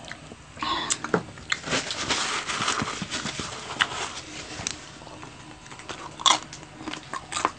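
Close-up eating of crispy roast pig (lechon): irregular sharp crunches of the skin being bitten and chewed, densest in the first few seconds and sparser after, with a couple of louder crunches near the end.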